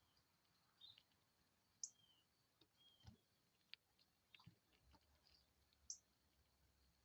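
Faint, scattered short bird chirps, high and brief, mixed with light clicks.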